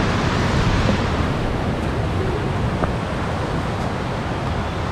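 Steady rushing roar of a waterfall: water pouring over the rocks of the Jukankoski (White Bridges) falls, an even, unbroken noise.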